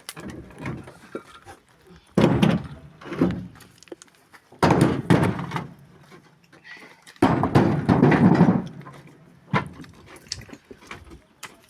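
Loads of stone dropped into a truck bed, landing as a heavy crashing thud about every two and a half seconds, four times, each with a short rattling tail.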